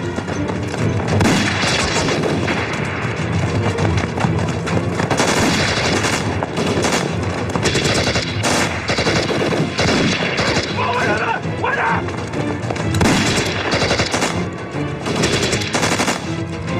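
Drama battle-scene gunfire: rapid, repeated gunshots in quick volleys, with a music score running underneath.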